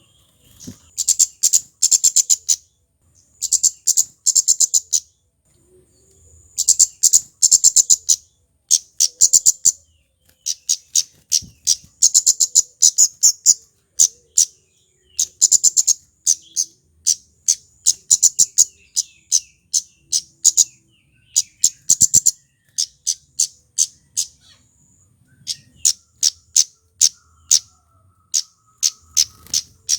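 Male flowerpecker (kemade) giving its high, sharp chip call, fast runs of ticking notes in bursts of a second or two, again and again with short pauses.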